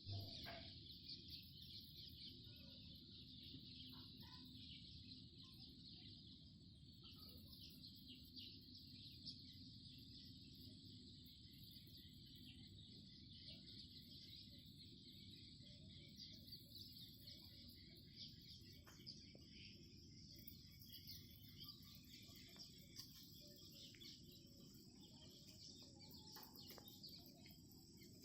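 Faint outdoor ambience: a steady high insect-like trill with low rumble beneath, and scattered short animal calls.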